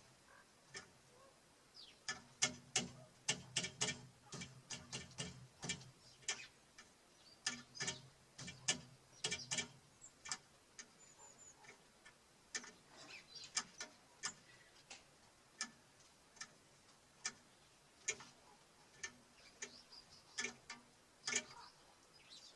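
Small birds pecking seed on a wooden bird feeder: irregular sharp taps and clicks, sometimes in quick runs, with a brief high chirp about eleven seconds in.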